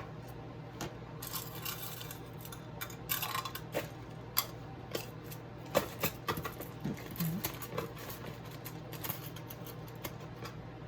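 Small metal tools and pieces clicking and tapping irregularly as they are picked up and set down on a work table, over a steady low hum.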